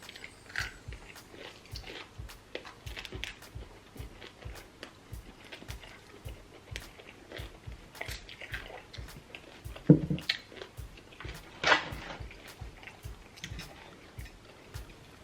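Close-up eating sounds: chewing, biting and wet mouth clicks, with two louder bites or crunches about ten and twelve seconds in.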